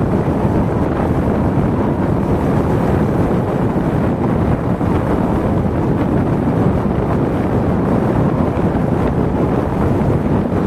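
Steady wind noise rushing and buffeting over the microphone, a dense low rumble with no break.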